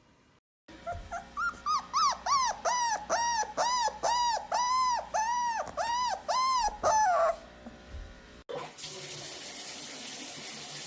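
Dog giving a rapid series of short whining, yodel-like calls, about two or three a second, each rising and falling in pitch, for roughly six seconds. About two-thirds of the way through it gives way to a steady rushing noise.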